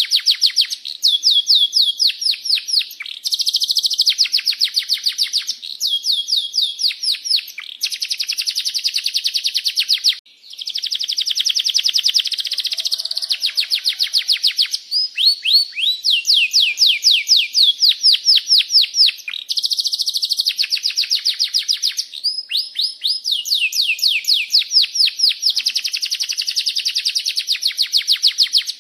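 Domestic canary singing long rolling trills: fast runs of repeated falling chirps, high-pitched, in phrases of one to three seconds with brief pauses between them.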